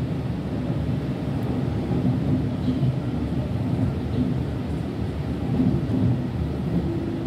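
Sydney Trains electric suburban train under way, heard from inside the carriage at the doors: a steady low rumble of wheels on rail with a faint hum.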